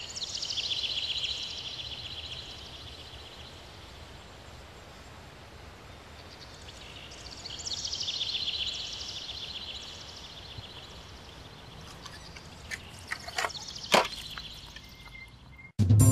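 Outdoor ambience with a songbird singing a rapid, high trill twice. Near the end there are a few sharp clicks and a louder knock.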